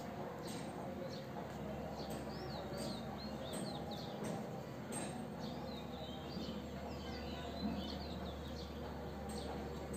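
Small birds chirping repeatedly over a steady low hum, with faint scratches and taps of a ballpoint pen drawing lines on paper.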